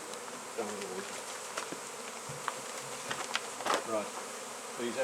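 A honey bee colony buzzing steadily as the bees and combs are moved into a nuc box, with scattered light clicks and knocks from the handling.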